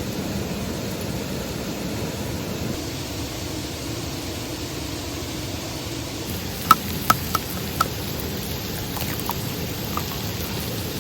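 Steady rushing noise with four sharp pops in quick succession about two-thirds of the way in, and a couple of fainter ones near the end.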